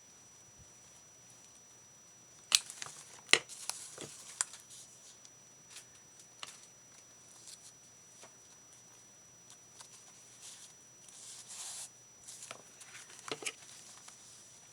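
Tabletop paper-crafting handling: a few sharp clicks and snips about two and a half to four and a half seconds in, then scattered light ticks and rustling of paper and trim, with a longer rustle around eleven seconds and more clicks near the end.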